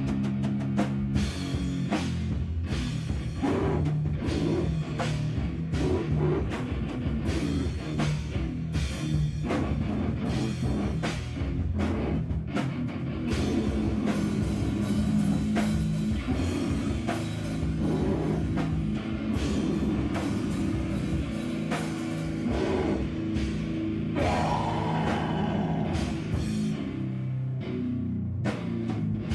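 Live band playing loud, heavy rock, with a drum kit hit in fast, dense strokes over sustained low guitar and bass notes.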